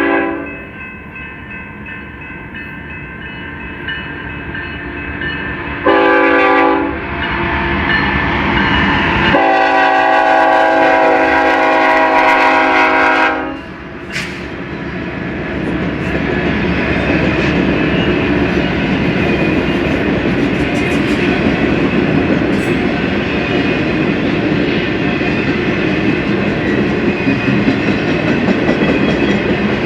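BNSF freight locomotive's air horn sounding a short blast and then a longer blast of about four seconds, followed by the train running past with a steady rumble of engines and clattering wheels over rail joints.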